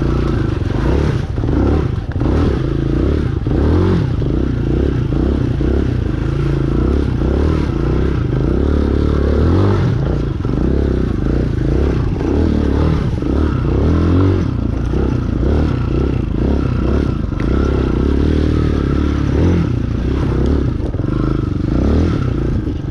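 Chinese 250cc dirt bike engine revving up and down over and over as it churns through deep mud, with clattering and scraping from the bike throughout.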